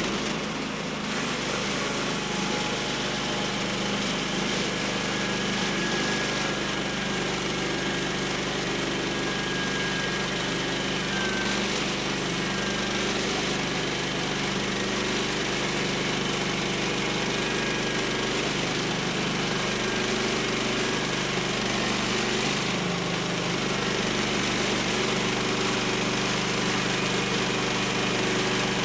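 Woodland Mills HM126 portable bandsaw mill running steadily, its gas engine holding a constant speed as the band blade cuts a board from the log.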